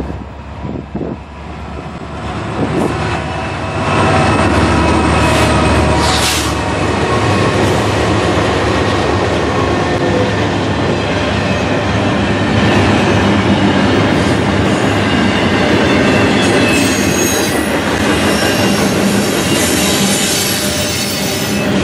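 Norfolk Southern EMD SD60E diesel locomotive, a 16-cylinder two-stroke, running past close by. The sound grows louder and peaks about four seconds in as the locomotive goes by. Double-stack intermodal container cars follow, rolling past with steady wheel noise and a thin wheel squeal on the curve.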